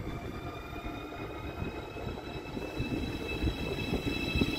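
ICE high-speed electric train pulling away past the platform: the traction whine rises slowly in pitch as it gathers speed, over a rumble of wheels on the rails.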